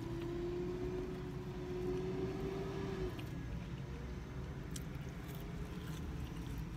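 Close-up chewing of McDonald's french fries over a steady low rumble. A single steady held tone lasts for about the first three seconds, and a few faint soft clicks come in the second half.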